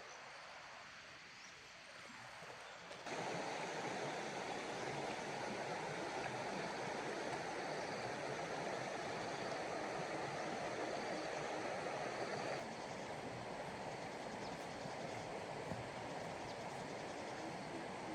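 Flowing water rushing steadily. It gets suddenly louder about three seconds in and drops back a little around twelve seconds in.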